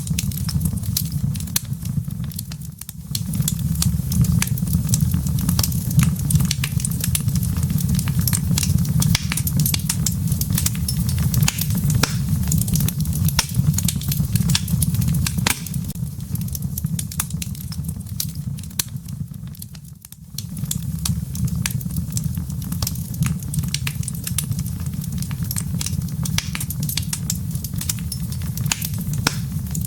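Wood fire in a fireplace crackling, with many sharp pops of the embers over a steady low rumble of the flames. The rumble dips briefly twice, about three seconds in and again near twenty seconds.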